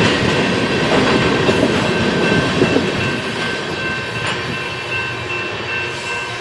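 BNSF freight train's cars rolling past on the rails, wheels clacking over the joints with a thin, steady high ringing. The noise slowly tapers off as the train draws away.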